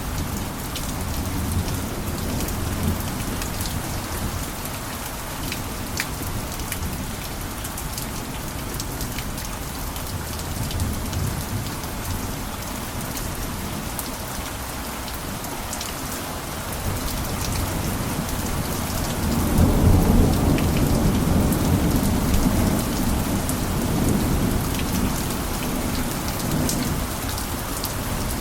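Steady heavy rain falling on a roof, with sharp ticks of single drops. Low thunder rumbles in about two-thirds of the way through and keeps rolling to the end.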